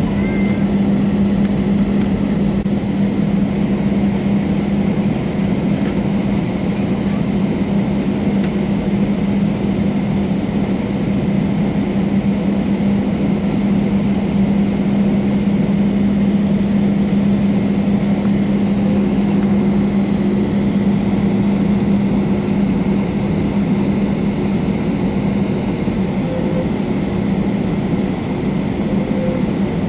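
Airbus A320's engines heard from inside the passenger cabin: a steady drone with a constant low hum that holds level, with no change in power.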